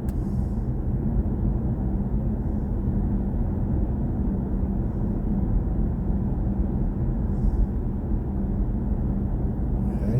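Steady low rumble of road and tyre noise from a moving BMW i4 M50, an all-electric car, so there is no engine note.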